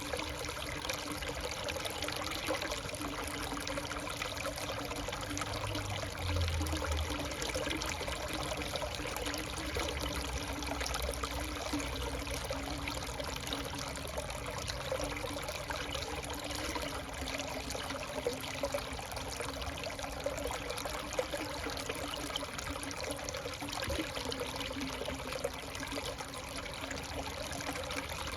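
Water running and trickling steadily, like a small stream.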